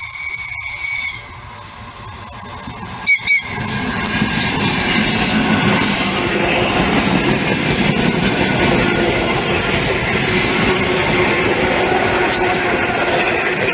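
An electric train sounds a high horn note, then gives two short blasts about three seconds in. It then runs past with loud, steady wheel and track noise that builds up and holds.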